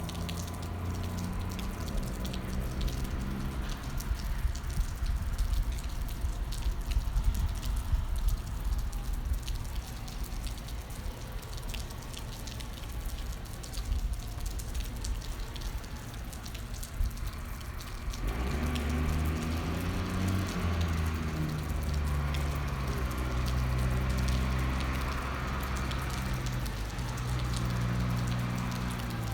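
Rain pattering with many sharp drips, likely drops striking the microphone or a nearby surface. Under it a vehicle engine runs low, growing louder about two-thirds of the way in.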